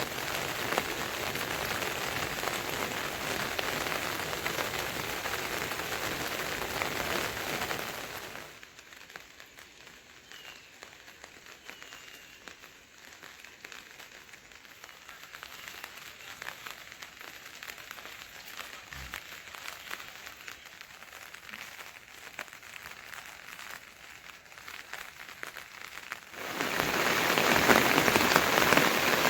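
Steady rain falling, an even hiss. About eight seconds in it drops to a much softer patter, and it comes back loud near the end.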